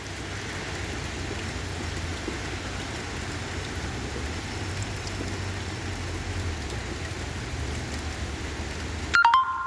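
Steady rain falling, with a low rumble underneath. About nine seconds in, a sudden loud, short beep-like click cuts in, and the rain noise drops away after it.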